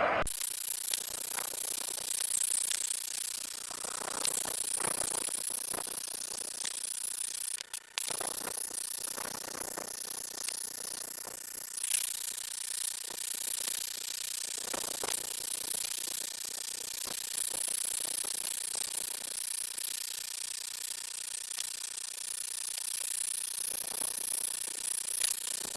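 MAP-gas torch hissing steadily as its flame chars the wood, with fine crackling through it and a brief drop-out about eight seconds in.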